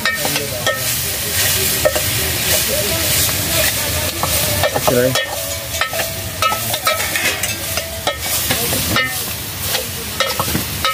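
Potatoes and vegetables sizzling as they fry in a steel pot over a wood fire, stirred with a metal ladle that clinks and scrapes against the pot again and again.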